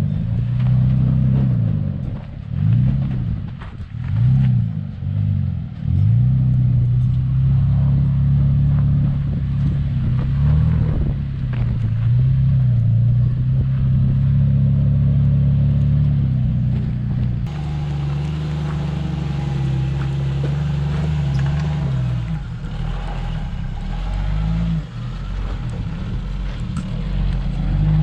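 An off-road vehicle's engine revs up and down several times, then runs at steady revs. The sound shifts abruptly about two-thirds of the way through.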